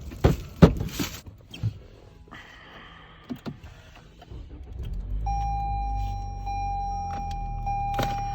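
Several knocks and a short hiss, then a car engine starts about five seconds in and runs with a low steady rumble. Over it a steady high electronic tone sounds, breaking briefly at regular intervals.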